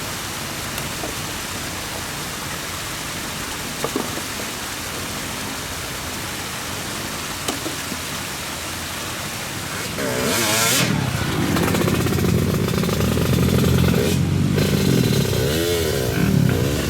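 A steady hiss for about ten seconds, then a motorcycle engine comes up loud and revs, its pitch rising and falling several times as the throttle is worked.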